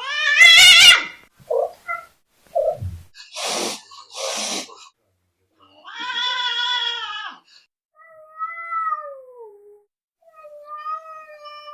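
Angry cats yowling and caterwauling: a loud wavering cry at the start, two short hisses a few seconds in, a long drawn-out yowl, then low moaning yowls that slide down in pitch.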